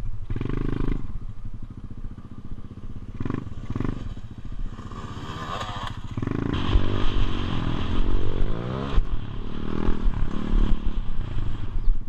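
Motorbike engine running and revving, its pitch rising and falling, louder in the second half.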